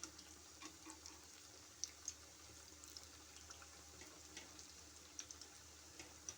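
Battered potato slices frying in hot oil: faint, scattered pops and crackles over a low steady hiss.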